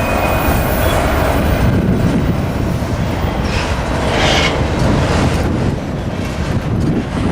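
Freight train cars rolling slowly past, the wheels rumbling and clacking on the rails, with a brief high screech about four seconds in.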